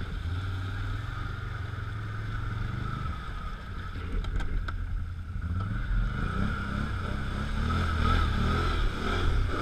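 Off-road vehicle engine pulling through a creek crossing, running steadily at first and then revving up about halfway through as throttle is given.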